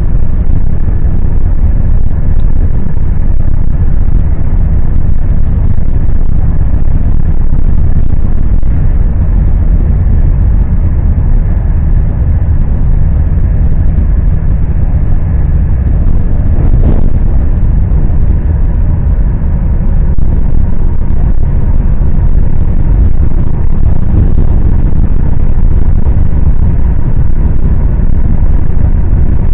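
Steady, loud low rumble of a moving train heard from inside the carriage: wheels running on the rails and the carriage vibrating, without change in pace.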